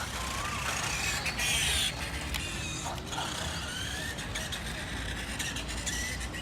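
The 380 electric motor and gear drive of a 1:5 scale RC motorcycle running on its first run after the motor was fixed: a whine that rises and falls in pitch as the speed changes, with mechanical clicks and rattles, loudest about one and a half to two seconds in.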